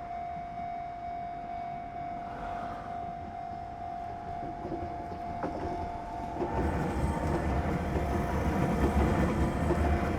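Enoden electric train approaching on its track, a low rumble that grows steadily louder from about six seconds in.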